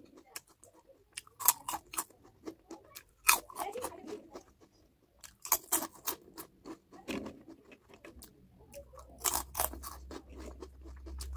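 Crunchy food bitten and chewed close to the microphone: clusters of sharp crunches with quieter chewing between them. A low steady hum comes in near the end.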